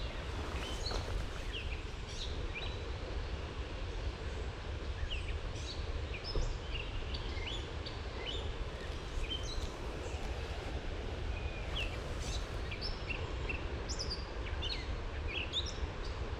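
Several songbirds calling and singing in short chirps and whistles, scattered throughout, over a steady low rumble.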